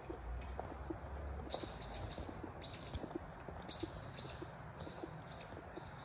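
A small bird's short, high chirps, repeated in quick series from about a second and a half in, over faint, evenly spaced low ticks.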